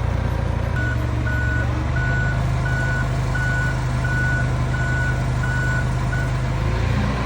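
Reversing alarm of a truck backing up: about nine short beeps at one steady pitch, evenly spaced, over the low running of the truck's engine. The beeps stop about a second before the end.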